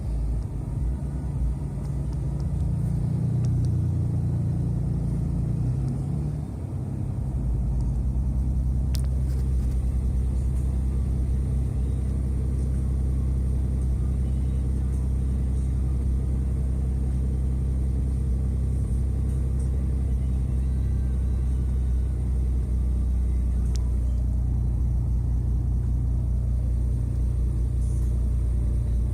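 6.7 Cummins inline-six turbo-diesel running at a steady high idle with the exhaust brake engaged in its cold warm-up mode, the brake loading the engine to bring it up to temperature. Its deep drone shifts in note about six seconds in, then holds steady.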